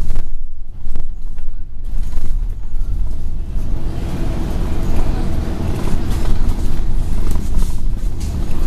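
Scania N113 double-decker bus's diesel engine running under way, heard from inside the bus: a steady low drone with road and body noise. The higher road noise fills in after about two seconds.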